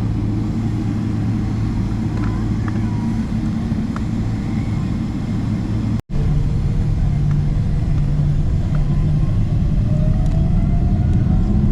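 Jet airliner engines giving a loud, steady rumble with a low hum. It cuts off abruptly about halfway through, then a new steady rumble starts, with a faint whine that slowly rises in pitch.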